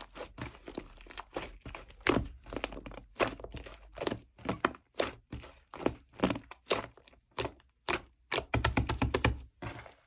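A string of irregular sharp knocks and clicks, roughly one or two a second, with some crinkling and a quick cluster of taps near the end.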